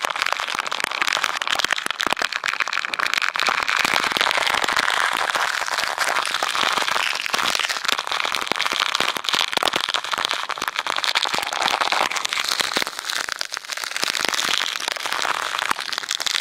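Heavy downpour: a dense, loud crackle of raindrops striking close to the microphone over the steady hiss of driving rain.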